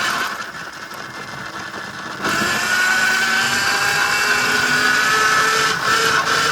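Tuttio Soleil01 electric dirt bike's motor whining with a steady pitch over a rushing noise. It gets suddenly louder about two seconds in.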